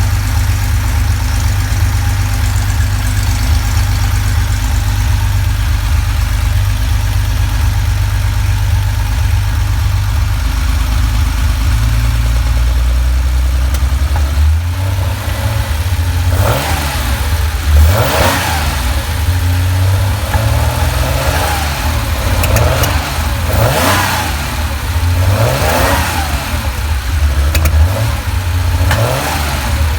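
Porsche flat-six engine idling, then revved in a string of short throttle blips, one about every two seconds, from about halfway through. The owner diagnoses a lean misfire.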